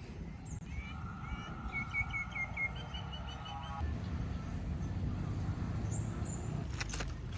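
A bird chirping a quick series of short repeated notes over a steady low rumble. A few sharp clicks come near the end.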